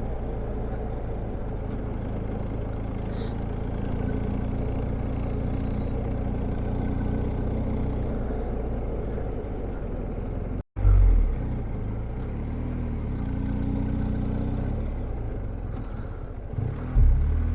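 Motorcycle riding along a road: a steady engine hum under road and wind noise. The sound cuts out for an instant about two-thirds of the way through, and a loud low thump follows straight after, with another low thump near the end.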